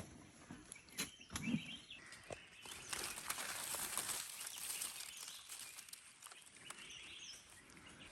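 Forest ambience: a faint, high, steady hiss with a few short bird chirps and several sharp clicks or snaps in the first couple of seconds.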